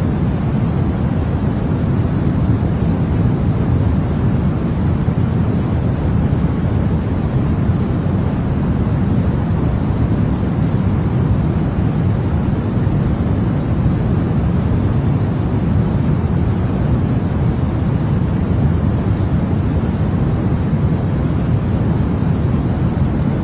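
Continuous white noise for baby sleep: a steady, unchanging rushing hiss, heaviest and deepest in the low range.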